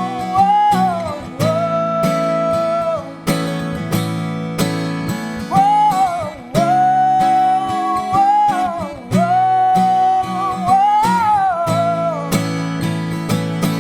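Strummed acoustic guitar under a woman's long, sliding sung notes without words, between lines of a ballad.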